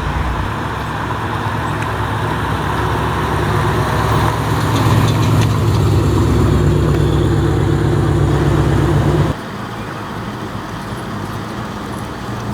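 A car engine running close by, growing louder for about nine seconds. It then cuts off suddenly, leaving a quieter background.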